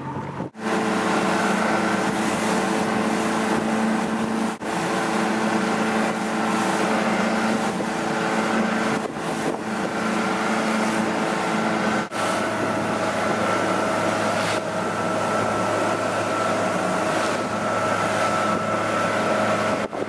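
Motorboat engine running steadily under way, a constant drone with wind noise on the microphone; the sound drops out briefly a few times.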